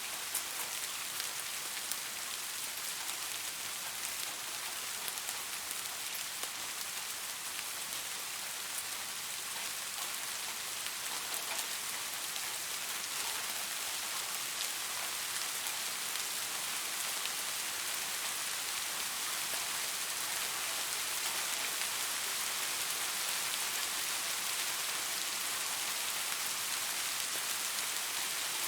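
Steady rain falling, an even hiss with the fine patter of drops, growing a little louder in the second half.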